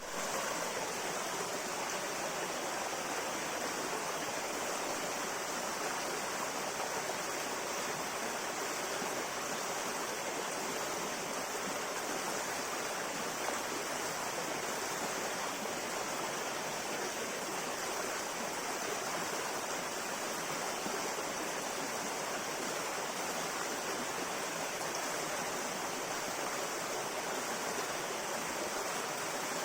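Steady rushing of a flowing river or stream, water running over rocks in an even, unbroken wash.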